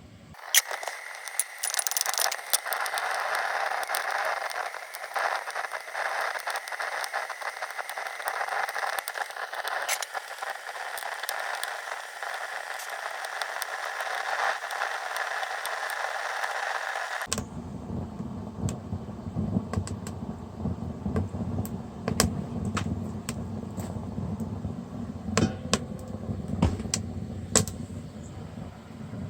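Wood fire burning in a rocket stove under a cauldron: a hiss with many sharp crackles, then, after a sudden change about 17 seconds in, a low rumble with scattered crackles.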